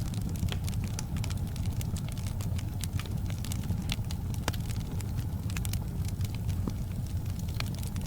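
Wood fire burning in a fireplace: a steady low rumble of the flames with frequent irregular sharp crackles and pops of the burning logs.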